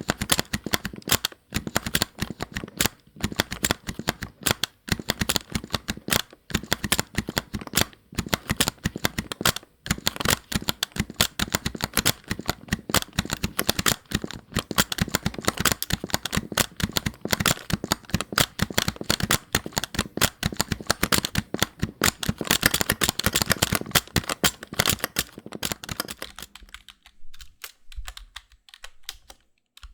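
Fast typing on a computer keyboard: a dense run of key clicks with short pauses, thinning to a few scattered, quieter keystrokes near the end.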